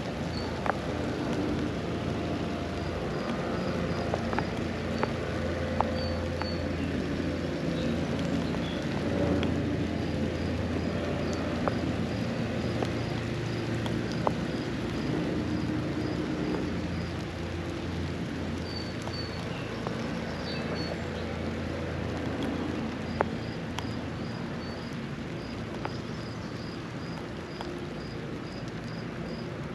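Steady rain shower with scattered sharp drop ticks, under a low engine drone. A bird repeats a short high note in quick, even series several times.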